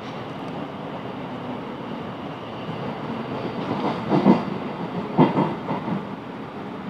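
Class 707 electric multiple unit running along the track, heard from inside the carriage as a steady rumble. Just past the middle, the wheels clack over the track in two loud groups about a second apart, followed by a few lighter clacks.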